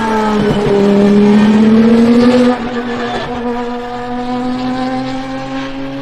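Lamborghini Essenza SCV12's naturally aspirated V12 engine on track: its note dips, then climbs as the car accelerates. About two and a half seconds in it drops sharply in loudness and carries on as a steadier, quieter note.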